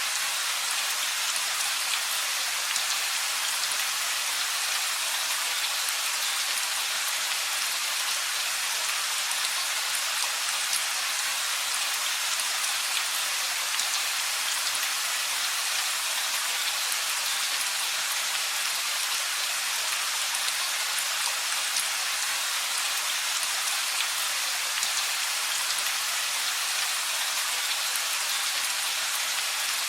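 Steady rain falling: an even hiss of rainfall with a fine patter of individual drops, unchanging in loudness throughout.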